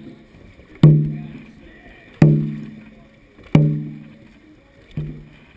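Dragon boat drum beaten in a slow, steady rhythm: four strokes about a second and a half apart, each a sharp hit with a deep ringing tone that dies away before the next. The last stroke is softer.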